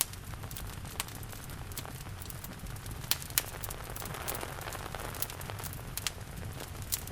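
Wood fire crackling with scattered sharp pops and snaps over a steady hiss and low rumble of rain.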